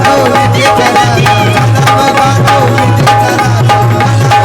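Instrumental interlude of a live Marathi devotional song: tabla and drum beating a steady rhythm under a held keyboard melody and a low bass drone.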